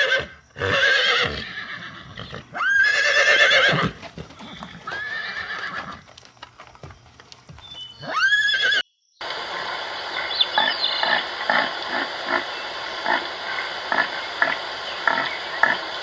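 Horse neighing: three loud whinnies in the first half, the last one rising at the start, with quieter sounds between. After a short break, a different steady sound with a regular pulse of about two beats a second takes over.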